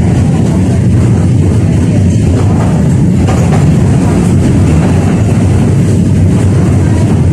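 A 71-605A (KTM-5A) tram running along the track: a steady, loud low rumble of wheels on rails and running gear.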